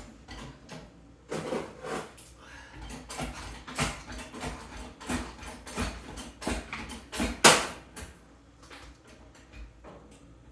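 A run of irregular knocks and clatters from hard objects being handled and set down, with one louder bang about seven and a half seconds in.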